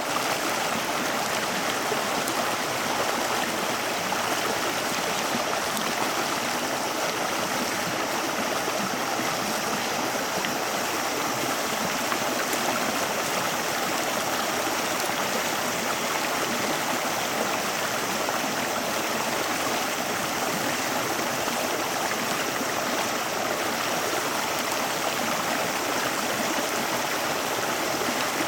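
Steady rushing of a flowing stream, an even wash of water noise with no change in level.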